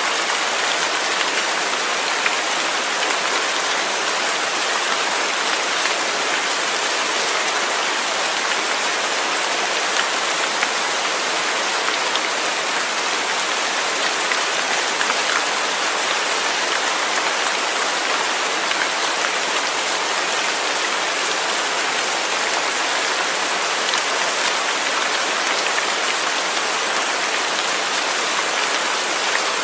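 Steady rain falling, a dense even hiss of drops hitting a surface, with faint scattered louder drop ticks.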